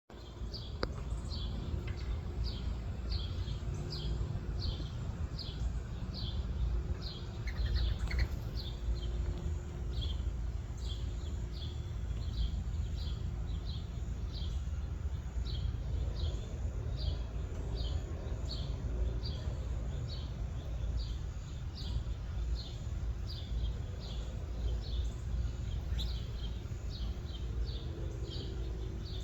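A small bird repeating one short, high chirp about once a second, steadily, over a constant low rumble of background noise.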